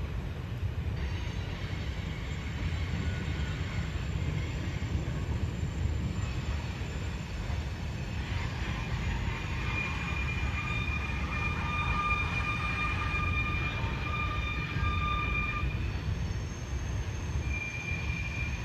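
Freight train cars rolling past with a steady low rumble; about halfway through, wheels start squealing in steady high tones as they take the curved connection track, fading briefly and returning near the end.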